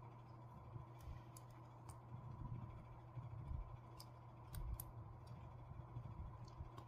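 Faint, scattered small clicks of smartphone parts and tools being handled during reassembly, over a steady low hum and a faint high tone.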